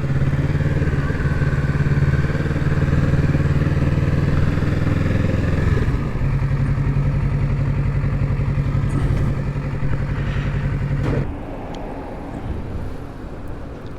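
2025 Kawasaki Z650's parallel-twin engine running steadily at low revs. It eases off about six seconds in and cuts off abruptly about eleven seconds in.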